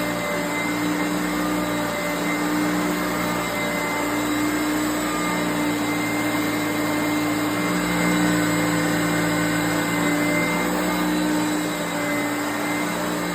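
Hoover Power Drive Concept One self-propelled upright vacuum cleaner running on carpet: a steady motor hum and whine over airflow noise. Its tone shifts slightly about eight seconds in.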